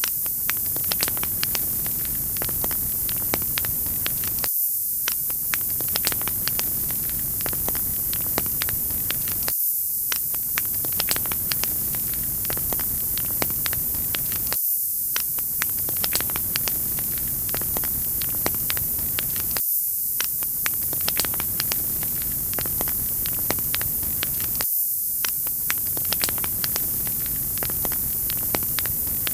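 Wood fire crackling: a steady bright hiss with frequent sharp pops and snaps. The sound repeats as a loop about every five seconds.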